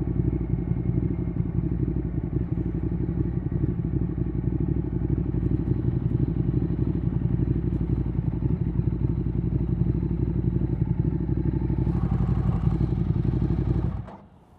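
Ducati Streetfighter 848's V-twin engine through a Termignoni exhaust, running steadily at low revs with a lumpy beat, then shut off about fourteen seconds in.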